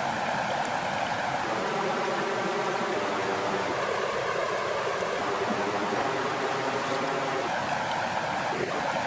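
Steady rush of flowing water at a lakeshore, with a few faint crackles from a log fire.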